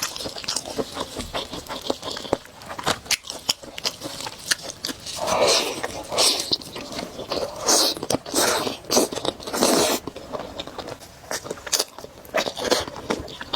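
Close-up sounds of a person eating spicy noodles: chewing with many quick wet clicks throughout, and a run of longer noisy slurps in the middle.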